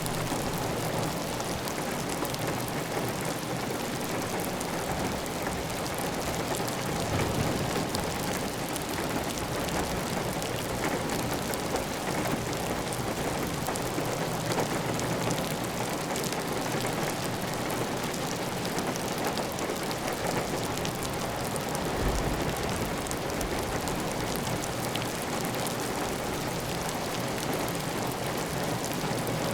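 Heavy, steady rain pattering on a clay tile roof, with water running off the roof edge.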